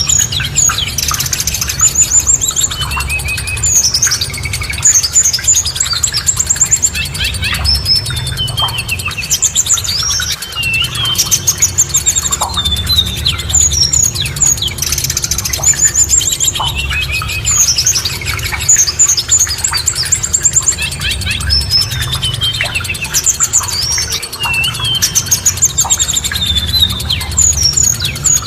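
Several songbirds singing together: dense, overlapping chirps, rapid trills and whistled notes, with no pause, over a low steady rumble.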